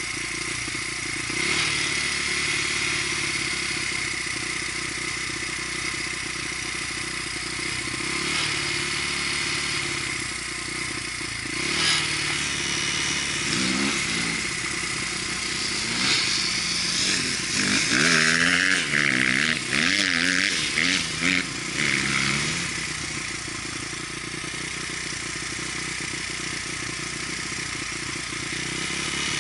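Dirt bike engine running under way, its pitch rising and falling with the throttle, with a louder stretch of quick revs up and down about two-thirds of the way through.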